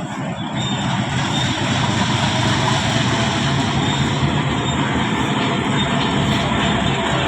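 A train running steadily close by: the drone of a diesel locomotive's engine under a steady rolling roar.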